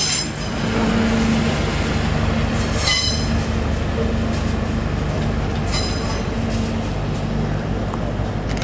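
CrossCountry Voyager diesel-electric multiple unit on the move, its underfloor diesel engines giving a steady hum. Two short, high wheel squeals come from the curved track, about three seconds in and again near six seconds.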